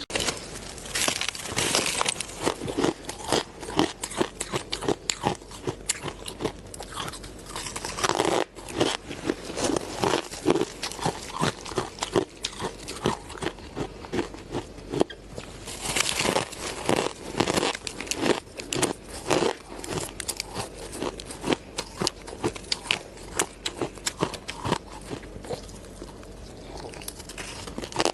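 Ice being bitten and chewed close to the microphone: a steady run of crackling crunches, with a louder bite every several seconds.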